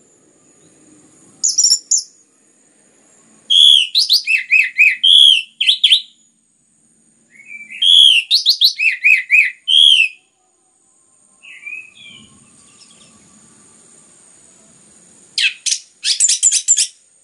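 Orange-headed thrush (anis merah) singing full, rapid phrases of varied whistles and trills, loud and in several bursts with short pauses between them: the dense, vigorous song that keepers call gacor.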